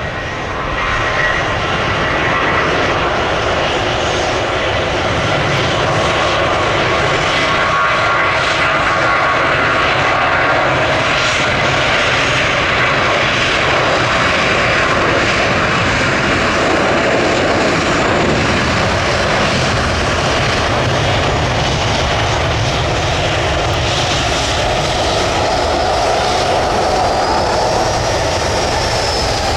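Jet airliner engines running loud and steady as the aircraft passes close, with a high whine that rises and then falls near the end.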